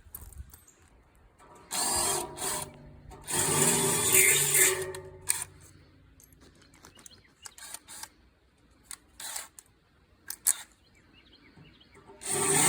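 A power drill runs in two short bursts, then a series of sharp clicks and knocks from handling, and the drill starts up again near the end.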